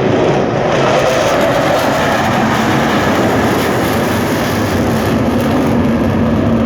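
Loud, continuous roar of a military jet flying by, its pitch slowly falling.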